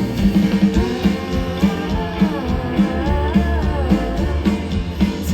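Live band music with a steady beat and a wavering melody line between sung phrases.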